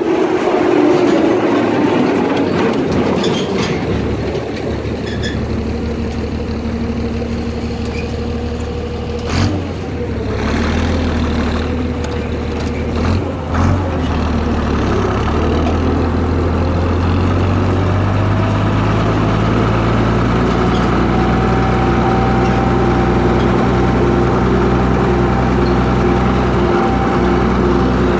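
Tractor's six-cylinder Leyland 411 diesel engine running while the tractor is driven. Its pitch drops over the first couple of seconds, a few short knocks come near the middle, and then it runs steadily.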